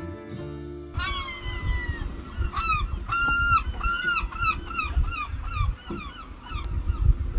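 Music that stops about a second in, then waterfowl honking: many short calls in quick succession over a low rumble.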